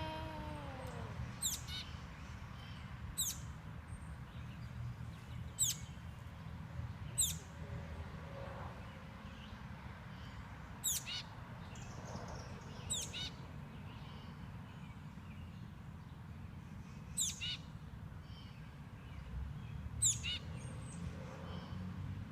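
A baby bird chirping: short, very high chirps that drop sharply in pitch, repeated about nine times with gaps of one to four seconds.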